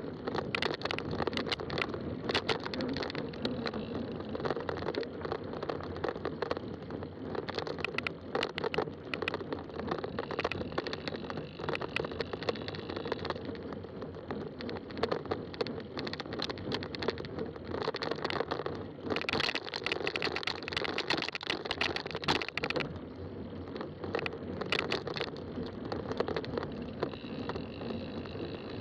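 A fat-tire bike rolling over a rough trail, with steady tyre noise and a constant patter of small crackles, knocks and rattles from the tyres and frame. The sound grows brighter and louder for a few seconds about two-thirds of the way in.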